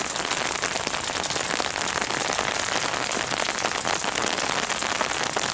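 Steady rain falling, heard from under an umbrella: an even hiss made of many small drop hits close by, with no thunder in it.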